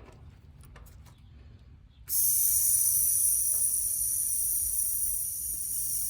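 Refrigerant hissing through a service valve as it is opened, letting the charge into the evacuated line set and indoor coil. A few light clicks of the tool on the valve come first, then about two seconds in a steady high hiss starts suddenly and keeps going.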